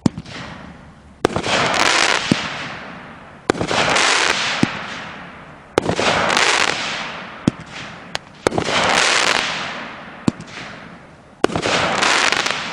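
Legend Fireworks Key Break, a 9-shot 200-gram cake, firing shot after shot. Each shell breaks with a sharp bang followed by a loud hiss that fades over about two seconds. Five breaks come about every two and a half seconds, with single sharper pops of the launches in between.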